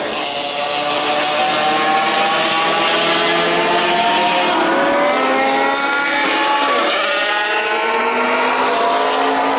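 Mazda four-rotor rotary race car engine at high revs, its pitch climbing steadily, dropping back about halfway through and climbing again.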